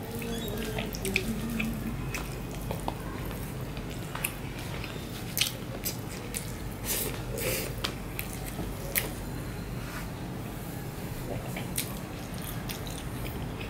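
Close-miked eating sounds: a person chewing a handful of rice and curry eaten by hand, with scattered sharp wet mouth clicks and smacks, and soft squelching of rice being mixed by hand on a banana leaf near the start.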